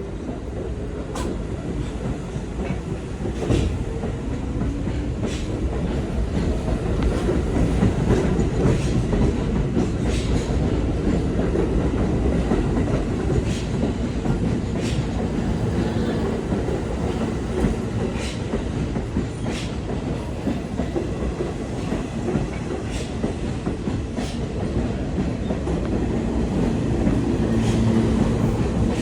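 R46 subway train running out of a station, with a steady low rumble of wheels on rail and sharp clicks every second or two as the wheels cross rail joints. A faint tone rises in the first few seconds as the train gathers speed.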